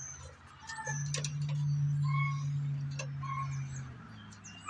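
Wild birds chirping in short, scattered calls over a steady low hum that drops in pitch about four seconds in, with a few sharp clicks of tools being handled.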